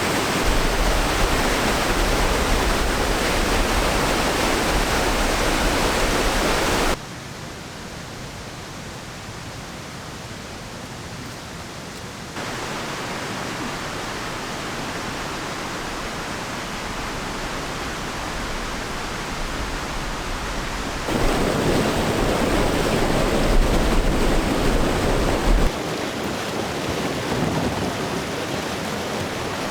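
Whitewater rapids rushing steadily. The level drops abruptly about seven seconds in and jumps back up several times later.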